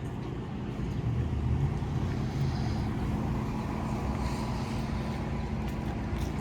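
Diesel pickup engine running steadily at idle, a low even rumble with no revving.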